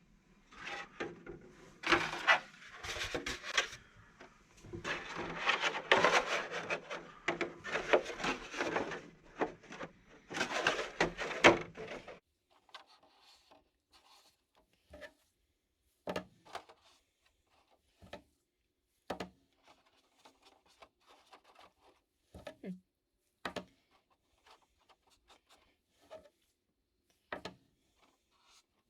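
Hands handling and rubbing the RC truck body and its parts during gluing: dense scraping and rubbing for the first half, then scattered light clicks and taps.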